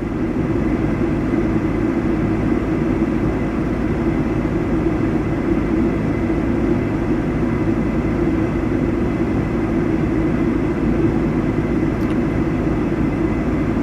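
A vehicle engine running with a steady, even drone that holds the same level throughout.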